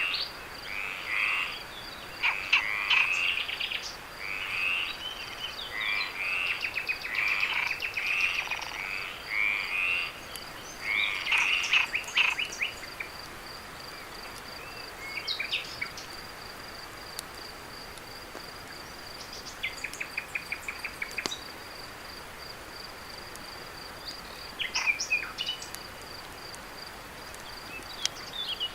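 Frogs calling in a rapid run of short croaks, about one a second for the first dozen seconds, then only a few scattered calls. Under them runs a steady, high, pulsing insect trill, like a cricket chorus.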